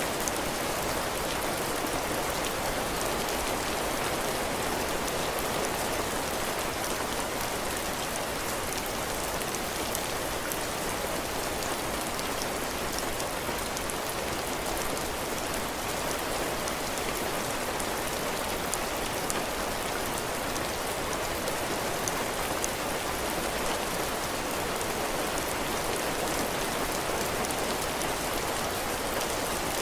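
Heavy rain falling steadily on a cabin porch, drops striking the roof and the ground in a constant hiss with fine individual drop ticks.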